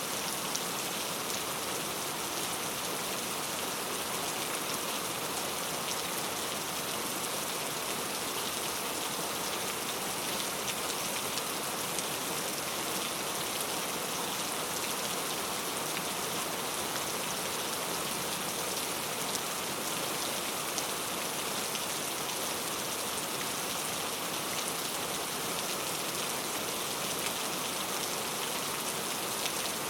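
Steady heavy rain falling, with a dense patter of drops hitting a surface.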